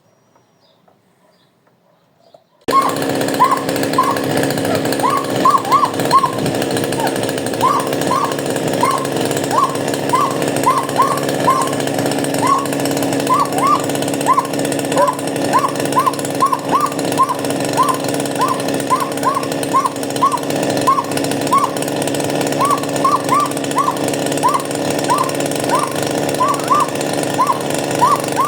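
Chainsaw engine running steadily at speed, cutting in abruptly a few seconds in out of near silence. Short squeaky chirps repeat irregularly over it, about two a second.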